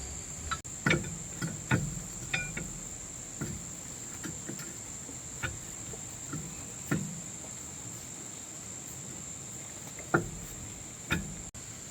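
Insects chirring in a steady high-pitched drone, with scattered light knocks and clinks, the loudest about a second in and about ten seconds in.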